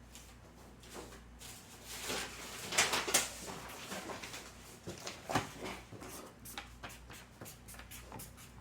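Someone writing by hand, likely the formula V = IR: a run of short, scratchy pen strokes with a few light taps, loudest about three seconds in.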